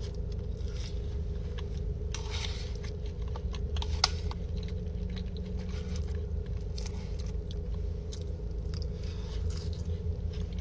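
Close-up chewing with many small crunches and wet mouth clicks at an uneven pace, over a steady low hum.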